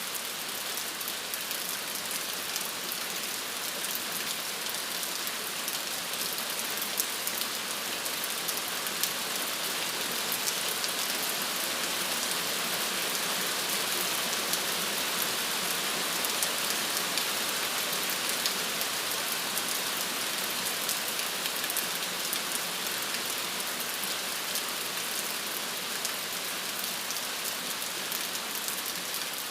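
Steady rain falling on a surface, an even hiss with many small drop taps throughout.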